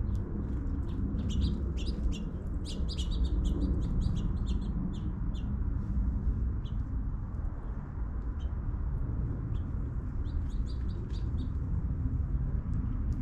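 Birds chirping in quick short calls, busiest in the first few seconds and again near the end, over a steady low rumble.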